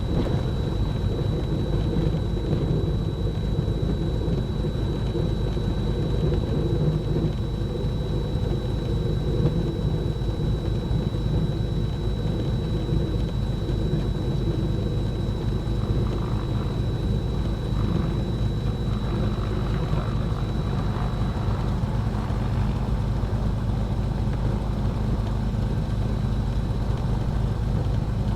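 Cessna 310's twin piston engines running steadily at low taxi power, a constant drone with a thin high whine over it that fades out about two-thirds of the way through.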